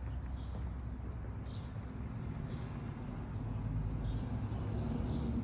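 Small birds chirping over and over, short high falling chirps about two a second, over a low steady background hum.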